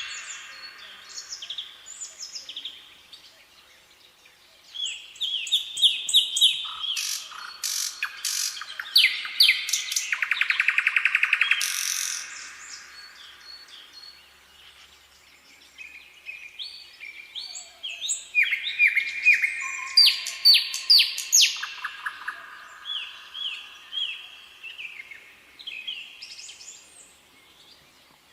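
Songbirds singing: loud phrases of sharp chirps and fast trills come in two spells, about five seconds in and again about seventeen seconds in, with softer calls in between.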